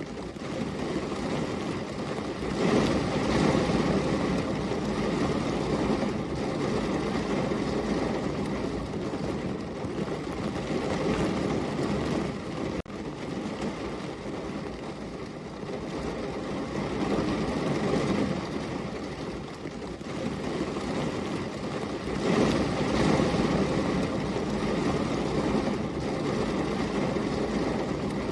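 Heavy rain falling steadily, a dense low hiss that swells and eases every several seconds, with a brief sharp drop in level about halfway through.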